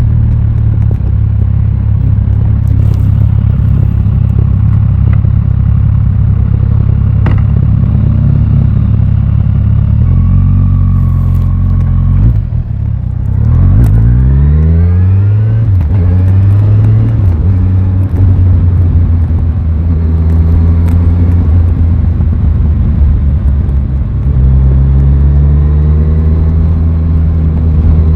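Aprilia Tuono 660 parallel-twin motorcycle engine running loudly. A little after twelve seconds it dips briefly, then its pitch rises over a few seconds as the engine revs up. It settles into steady running, and its pitch climbs again near the end.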